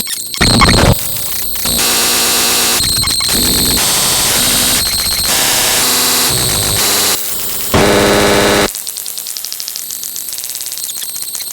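Harsh electronic static and buzzing noises, loud, switching abruptly from one texture to another every second or so. Near the end it drops to a quieter, rapidly fluttering buzz.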